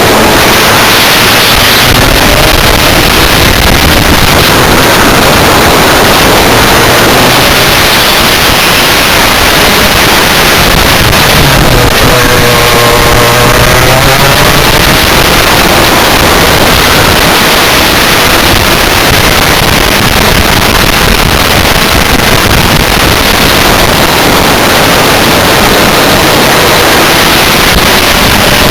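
Rotax Max Senior 125 two-stroke kart engine running hard on track, its pitch dipping and climbing again about halfway through as it slows and accelerates, over constant wind rush.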